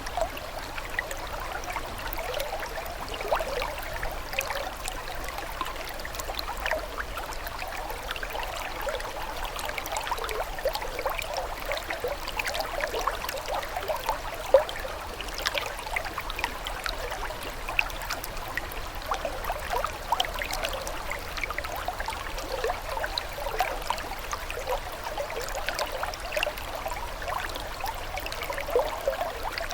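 Running water trickling steadily, full of small gurgles and drips, with one louder plop about halfway through.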